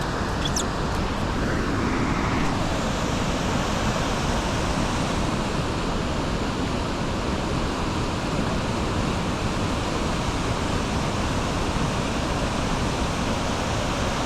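Steady rushing noise from a bicycle being ridden along a gravel towpath: air rushing over the microphone together with the tyres rolling.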